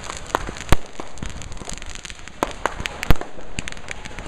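Consumer fireworks and firecrackers going off: a steady crackle of scattered pops, with two loud bangs, one under a second in and one about three seconds in.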